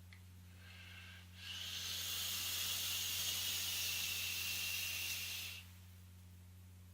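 An electronic cigarette being drawn on: a steady hiss of air and vapour through the atomizer. It starts faintly with a slight whistle, swells after about a second and a half, holds for about four seconds, then cuts off sharply.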